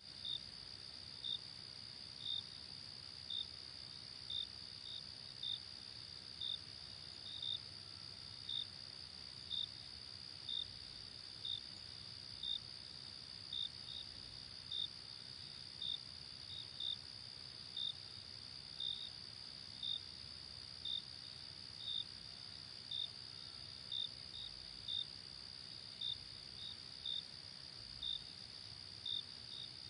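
Night insects calling: a steady high-pitched trill with separate chirps about once a second, some in quick pairs.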